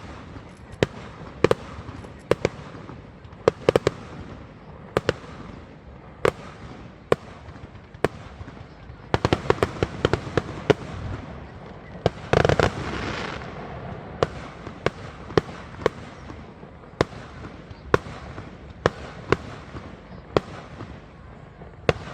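Aerial fireworks bursting in a steady run of sharp bangs, roughly one or two a second, with a dense flurry of cracks about nine seconds in and a longer, louder crackling burst about halfway through.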